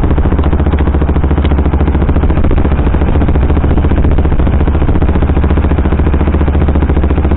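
KTM sport motorcycle engine, running on a Powertronic ECU map, holding a steady speed with even firing pulses and no revving up or down.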